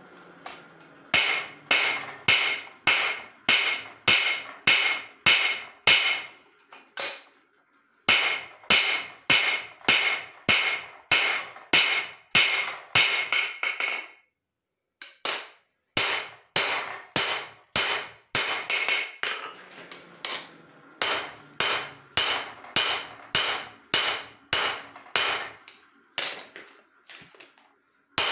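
Hand hammer striking leaf-spring steel on an anvil: a steady run of ringing metallic blows, about two or three a second. The hammering stops twice for a moment, once about a third of the way in and again around the middle.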